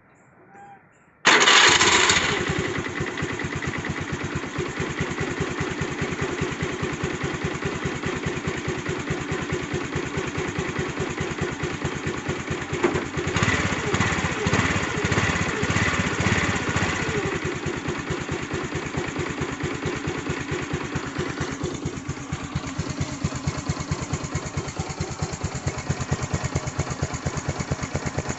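Honda Activa scooter's single-cylinder four-stroke engine starting about a second in, then idling through its exhaust. Around the middle it is revved for a few seconds, then settles back to a steady idle.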